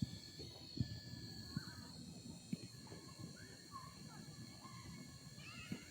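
Faint outdoor ambience with a steady high whine, short scattered chirps and a few soft knocks.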